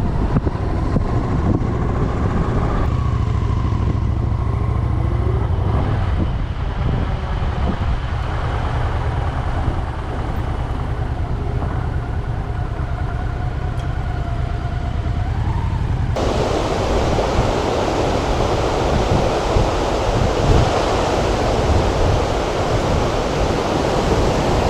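Motorcycle engine and wind rumbling while riding, with the engine note rising and falling slightly. About two-thirds of the way in it cuts suddenly to the loud, steady rush of a waterfall.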